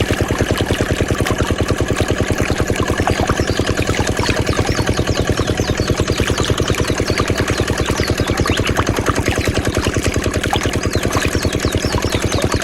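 Small diesel engine running a water pump at a steady idle-like speed, chugging with a fast, even beat of several firing strokes a second.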